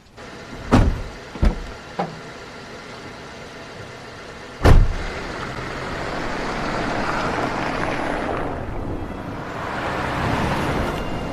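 Car doors thumping shut, the loudest about four and a half seconds in, then a car driving with a steady noise that swells and eases.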